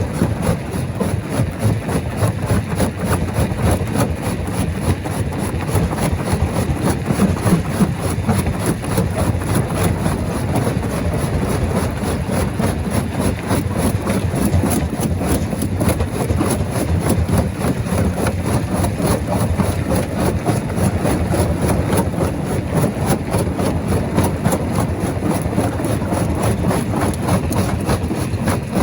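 Stone crusher machine running under load: a steady, loud, low mechanical noise with a dense, unbroken rattle of small knocks from rock being broken.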